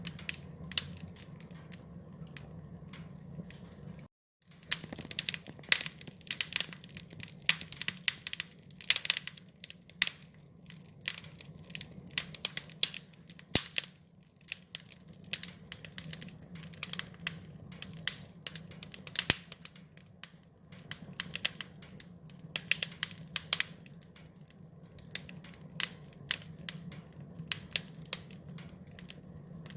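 Wood fire crackling, with irregular sharp pops and snaps of varying loudness over a steady low rumble. The sound cuts out completely for a moment about four seconds in.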